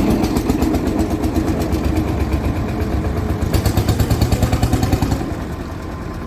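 Vintage tractor engine running with a rapid, regular beat. It gets louder about three and a half seconds in, then fades away near the end.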